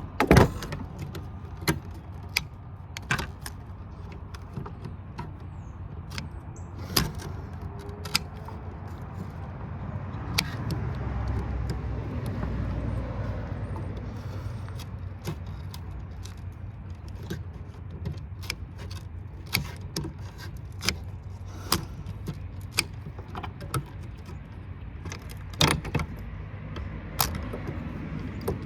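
Irregular sharp metallic clicks and clanks of hand tools working on scrap metal parts, with a low rumble rising for a few seconds near the middle.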